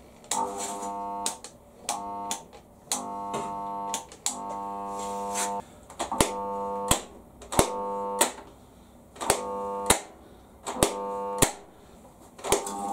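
A steady electrical buzz that starts and stops about nine times in short, irregular bursts. Each switch on and off is marked by a sharp click.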